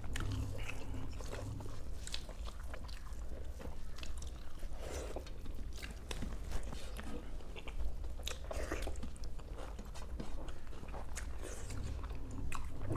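People chewing and biting into South Indian tiffin food, with irregular wet mouth sounds and small crunches, over a low steady hum.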